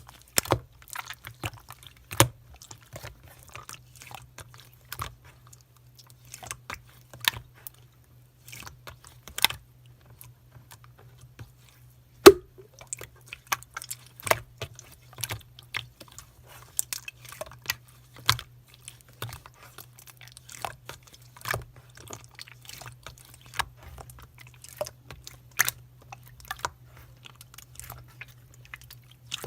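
Slime being squeezed and pressed by hand, giving irregular sharp clicks and pops, the loudest about twelve seconds in, over a faint steady low hum.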